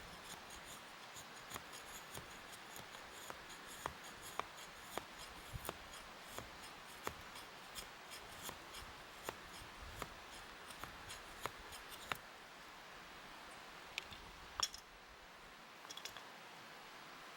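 Repeated short, sharp cutting or scraping clicks, about one or two a second, that stop about twelve seconds in, followed by a few isolated clicks.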